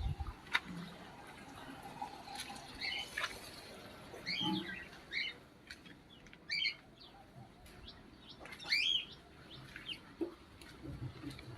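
Small birds chirping in short, scattered calls, some sweeping quickly in pitch, with a few sharp clicks between them.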